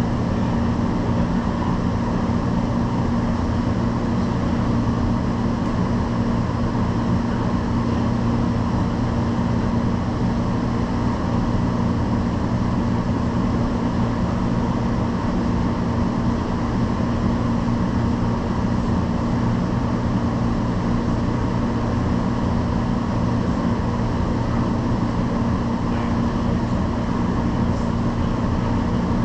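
Steady hum inside a stationary light-rail car, its ventilation and electrical equipment running with a constant low tone and no change in pitch while the train is held.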